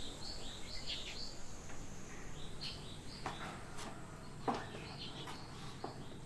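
Small birds chirping in short, scattered calls over a steady low background noise, with one louder, sharp note about four and a half seconds in.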